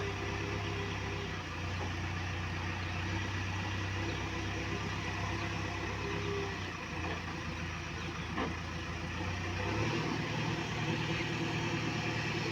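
Diesel engine of heavy machinery idling steadily, its pitch shifting slightly higher near the end.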